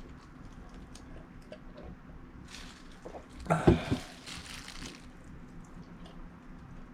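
A person eating, with faint chewing and small mouth clicks, and a short, louder mouth noise about three and a half seconds in.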